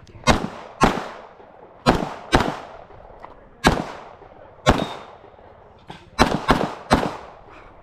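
9mm Glock pistol fired during a timed course of fire: nine sharp shots, several in quick pairs about half a second apart with longer gaps between the groups, each followed by a short echo.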